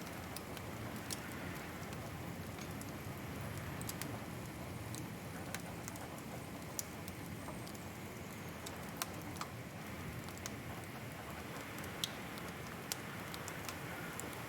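Wood fire crackling in a fireplace: irregular sharp pops and snaps scattered over a steady low rushing of the burning fire.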